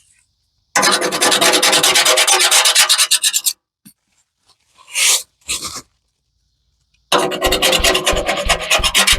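Rapid hand scrubbing with a brush on a metal part, about ten strokes a second. It comes in two stretches of a few seconds with a pause and a couple of short strokes between. A low regular thumping runs under the second stretch.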